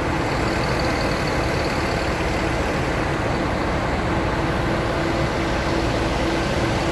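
Airliner cabin noise: the steady drone of the engines and airflow, with a faint constant hum.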